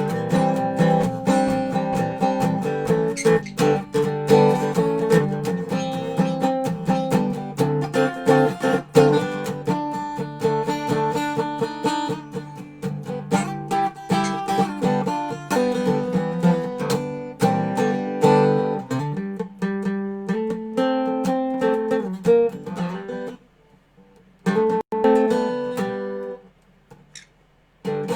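Dobro resonator guitar played in a blues jam, picked notes and chords running on, stopping briefly twice near the end.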